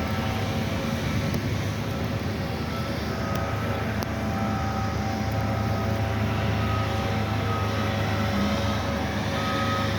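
Diesel engine of heavy snow-moving equipment running steadily, with faint short high beeps coming and going.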